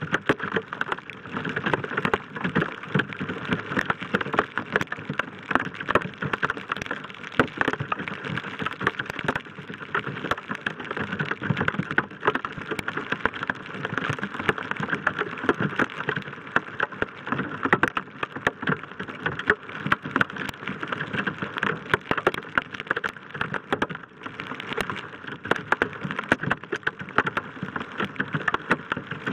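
Heavy rain striking the roof-mounted camera housing and truck roof in a storm core: a dense, steady patter of sharp drop impacts that never lets up.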